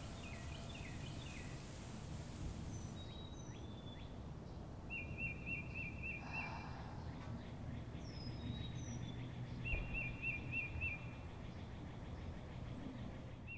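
Birds calling over a low steady rumble: a quick run of about six repeated notes comes twice, with scattered short high chirps between.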